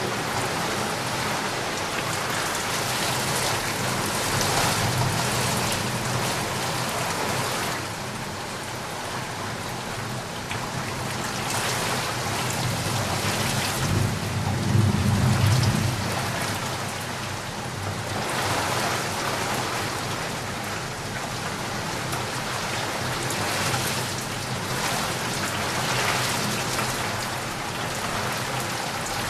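Heavy rain falling steadily in a dense hiss, swelling and easing. A brief low rumble of thunder comes about halfway through and is the loudest moment.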